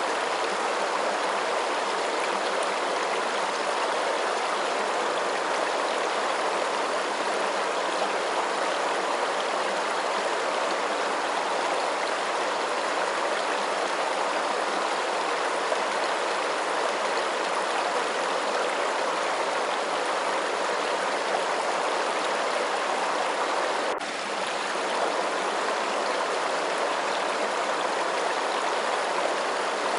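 Steady rushing of running water, an even, unbroken flow. It dips briefly about three-quarters of the way through.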